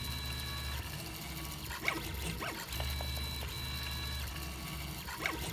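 3D printer's stepper motors whining and humming as the print head moves, the tones cutting in and out as each move changes, with a couple of faint clicks.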